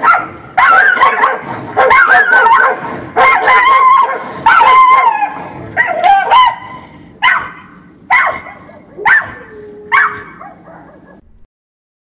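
Angry dog barking: a rapid run of barks for about six seconds, then single barks about once a second, stopping shortly before the end.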